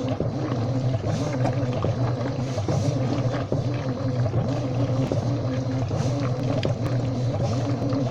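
Washing machine running: a steady motor hum with a slight wavering in pitch and scattered small clicks.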